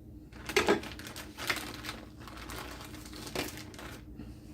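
Cooked chicken, partly frozen, being broken up by hand: a few short crackling, crunching handling noises, the loudest just over half a second in and another near three and a half seconds.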